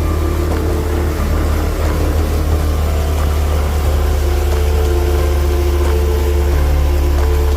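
Tohatsu 9.8 hp four-stroke outboard motor running steadily at planing speed during its break-in, a loud, even drone.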